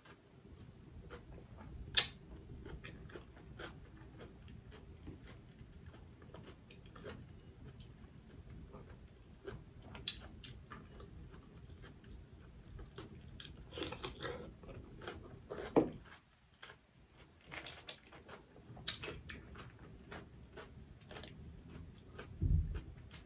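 Close-miked chewing and wet mouth sounds of a person eating boiled crawfish, with many scattered sharp clicks and smacks. There is a louder click about two seconds in, a busier stretch of smacking past the middle, and a dull thump near the end.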